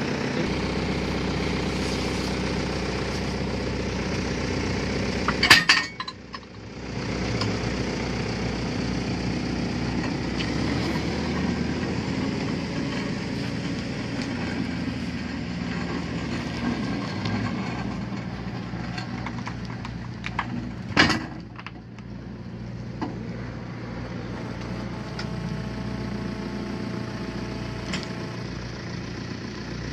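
A machine's engine running steadily, with a loud, sharp clattering crash about five seconds in and another about twenty-one seconds in.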